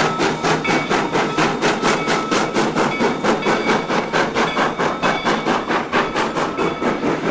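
2-8-0 steam locomotive working under steam, its exhaust chuffing evenly at about four beats a second, with a thin high squeal coming and going over it.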